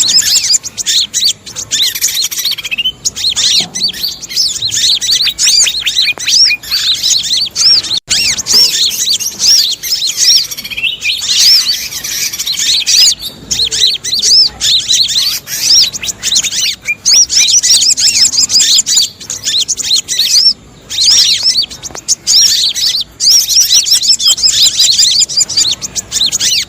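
Dense, rapid high-pitched chattering of little spiderhunters mixed with the noisy alarm-like calls of other small and larger birds, a bird-trapping lure mix, running almost without pause with a few brief gaps.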